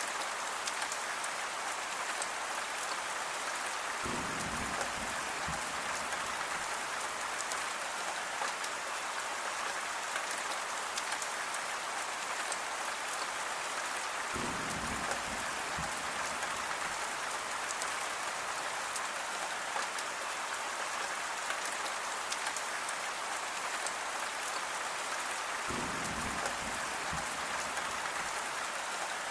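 Steady rain, an even hiss of many drops on a surface. Three brief low rumbles come about ten seconds apart, near the start, in the middle and near the end.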